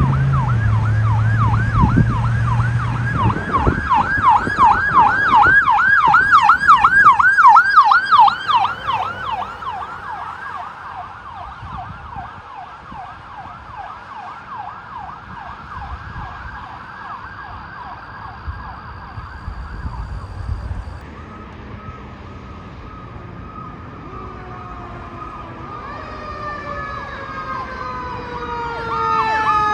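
Emergency vehicle siren in fast yelp mode, growing loud a few seconds in and then fading as the vehicle passes and moves away. Near the end another siren comes up, with long falling tones over a yelp.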